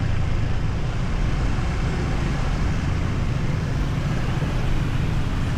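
Steady low rumble of riding on a motorbike through dense city traffic: engine and road noise.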